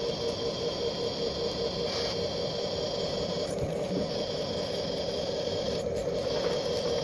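Small electric motor of a 1/14 scale RC garbage truck running steadily with a constant whine, its high part briefly dipping a few times.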